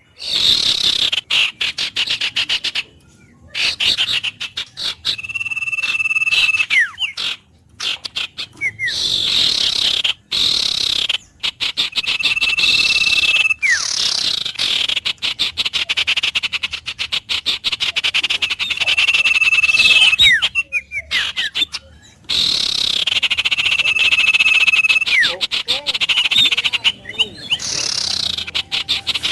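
Frogs and birds calling: a dense, rapid trilling chorus with a long, steady whistled note that ends in a falling slide, repeated about every six seconds. The sound cuts out abruptly for a moment several times.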